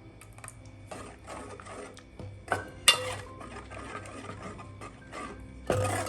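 Kitchen utensils scraping and knocking, with a few sharp clatters, over soft background music.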